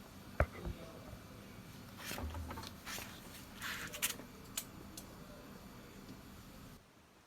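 Freshly sharpened scissors being tried on cloth: two sharp clicks of the blades, then several short rustling snips and clicks.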